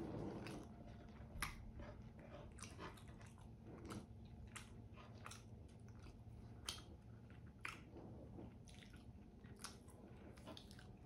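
Close-miked chewing of chicken adobo drumstick meat, with sharp wet mouth clicks and smacks every second or so.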